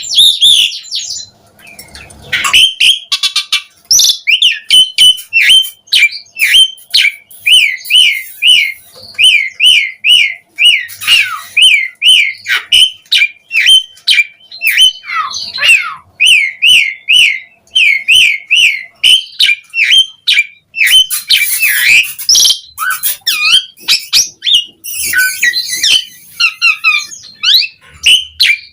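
Javan pied starling singing: a long run of quick repeated whistled notes, about three a second, with harsher, scratchy chattering phrases breaking in now and then.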